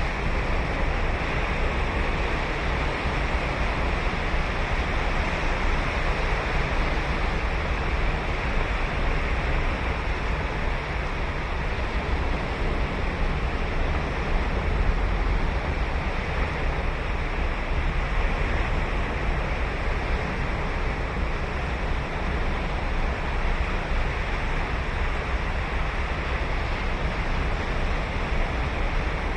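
Ocean surf breaking and washing on a sandy beach, a continuous steady wash with a deep low rumble, with some wind on the microphone.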